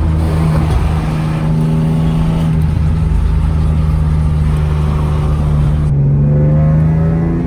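Car engine and road noise while driving. The engine note holds steady for most of the time, then rises as the car accelerates near the end.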